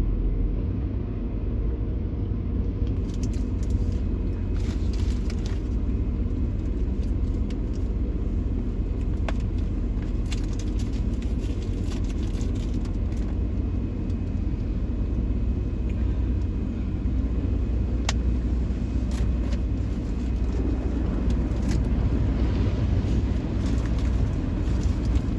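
Steady low rumble heard from inside a car cabin going through an automatic tunnel car wash, with scattered faint ticks and light taps over it.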